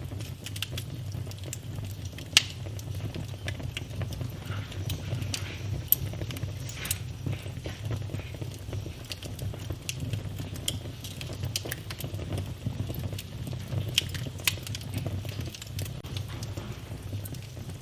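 Wood fire burning in a fireplace: a steady low rumble with irregular crackling and scattered sharp pops, a few of them much louder than the rest.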